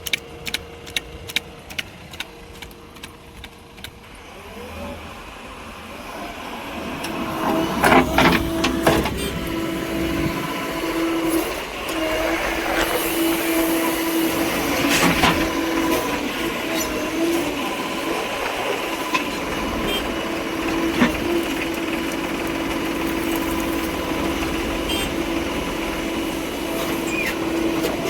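A heavy vehicle's engine running, getting louder from about five seconds in and settling into a steady drone. There are loud knocks and clanks around eight seconds and again around fifteen seconds. Quick regular ticks are heard in the first two seconds.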